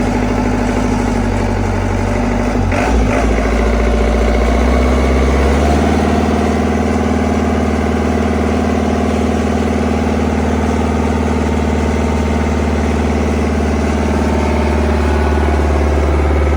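Mini excavator's Mitsubishi diesel engine running steadily after a newly installed fuel injection pump, a sign the no-start fault is fixed. There is a brief clatter about 3 seconds in, and the engine's note changes about 5 to 6 seconds in before settling.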